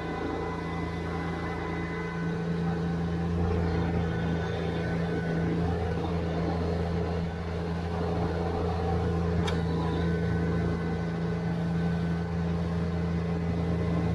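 A subcompact tractor's diesel engine running steadily under light work, with one sharp click about nine and a half seconds in.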